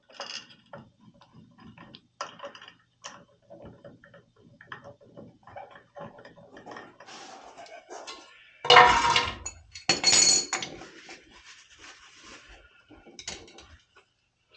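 Metal tools and parts clinking and clattering as they are handled, with two louder scraping rattles a little past the middle.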